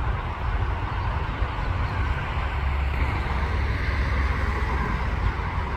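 Freight train rolling past: a steady rumble.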